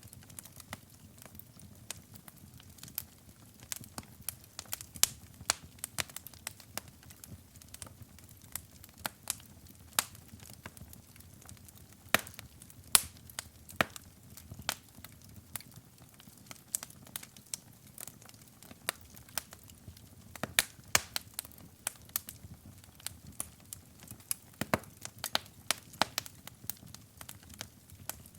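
Wood fire burning in a fireplace: irregular sharp crackles and pops, several a second, over a soft low rumble of the flames.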